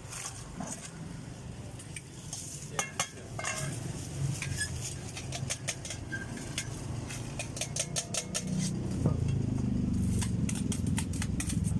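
Metal utensils clinking and scraping against dishes and bowls, with a quick run of clinks about seven seconds in. A low rumble builds over the last few seconds.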